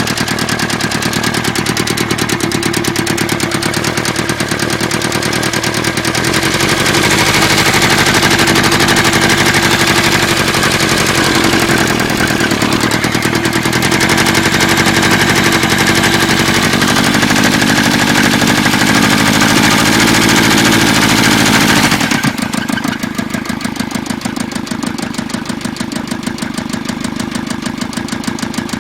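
Isuzu 4JB1T 2.8-litre four-cylinder turbodiesel running with a strong knock. The revs rise about six seconds in, hold, then drop back to idle near three-quarters of the way through. The knock comes from an engine that has lost power and blows white smoke out of the dipstick hole.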